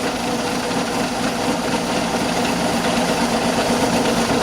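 Homemade compressed-air waste-oil burner firing into a small foundry furnace: a steady, even rushing noise of air and flame with a low hum under it.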